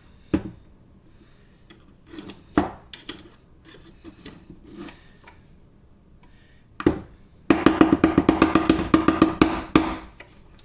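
A few separate knocks, then about two seconds of rapid rattling knocks from the parts of a Maticoopx automatic chicken door being handled while it is cleared of bedding.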